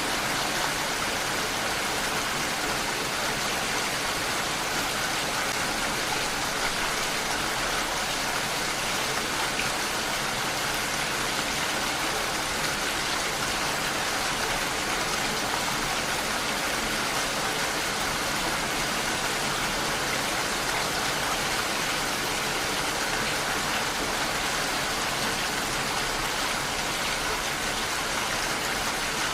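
Steady rain falling, an even hiss of drops without a break or change.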